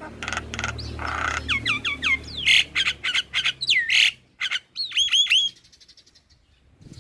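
Young male Javan myna singing vigorously: a fast jumble of harsh rasping notes, clicks and sharply down-slurred whistles, breaking off about five and a half seconds in.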